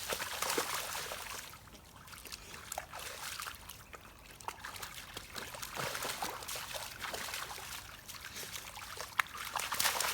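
A dog running and splashing through muddy water in truck wheel ruts; the splashing comes and goes in waves, loudest at the start, in the middle and near the end.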